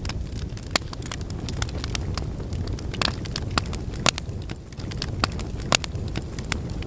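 Wood logs burning in a fireplace: a steady low rumble of flames with irregular sharp crackles and pops, the loudest about four seconds in and near the end.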